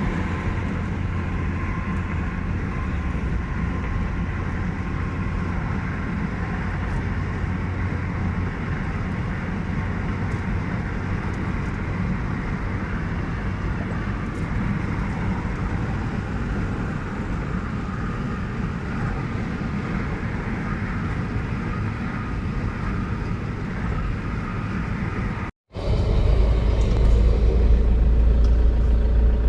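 A car driving along a highway: steady tyre and engine rumble. The sound cuts out for an instant near the end and comes back louder, with a deeper rumble.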